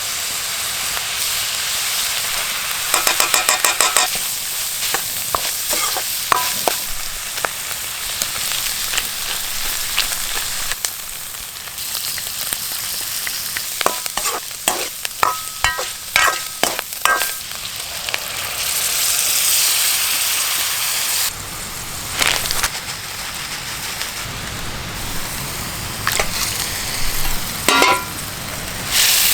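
Mapo tofu frying and sizzling in a pan, stirred with repeated clicks and scrapes of the utensil against the pan. The sizzle swells louder for a couple of seconds past the middle.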